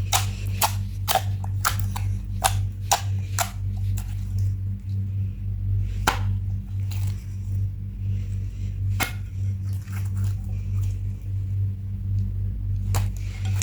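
Hands squeezing and stretching purple glitter slime, making a run of sticky clicks and pops. They come quickly in the first few seconds, sparsely in the middle, and quickly again near the end, over a steady low hum.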